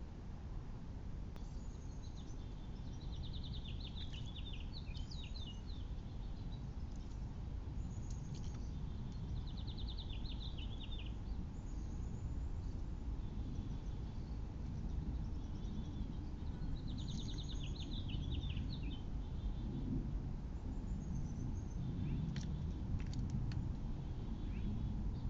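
A small songbird singing short, rapid trilled phrases, repeated about every six or seven seconds, over a steady low background rumble. A few sharp clicks come near the end.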